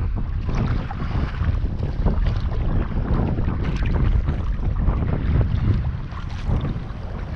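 Wind buffeting the microphone in a heavy low rumble, over sea water splashing and lapping around a kayak.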